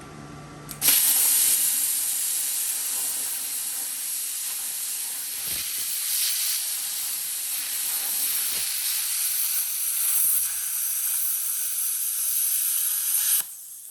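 Small plasma cutter cutting steel plate: a loud, steady hiss of the arc and air that starts abruptly about a second in and cuts off suddenly near the end. It is cutting on its first, worn-out tip, which is changed right afterwards.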